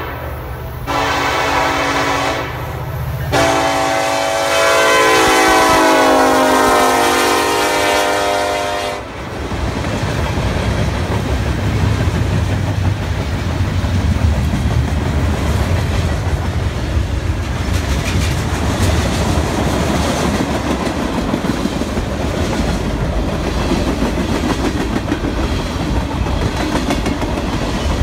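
Diesel freight locomotive's air horn sounding two long blasts, the second louder and ending about nine seconds in. Then the train rolls past close by: engine rumble and a steady clatter of freight car wheels on the rails.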